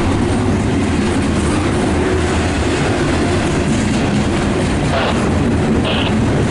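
Train cars rolling past at close range, a loud, steady rumble of steel wheels on rail, with a couple of brief higher-pitched squeals near the end.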